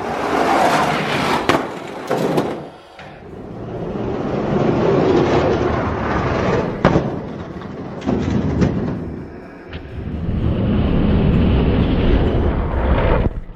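Two die-cast toy monster trucks rolling down a plastic race track, a rattling rumble broken by sharp clacks and knocks as they run, jump and land.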